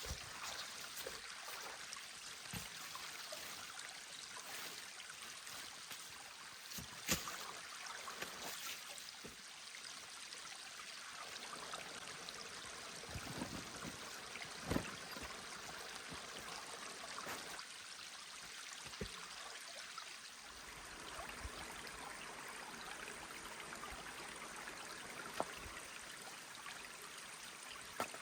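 A mountain stream flowing steadily over stones, with a few short sharp clicks or knocks scattered through it.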